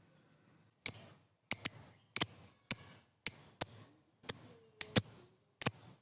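Lovebird giving short, sharp, high-pitched chirps, repeated about twice a second from about a second in.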